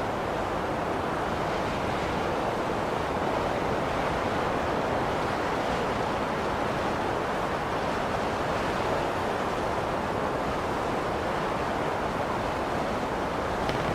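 Blizzard wind blowing steadily: an even, unbroken rush of noise with no gusts or pauses.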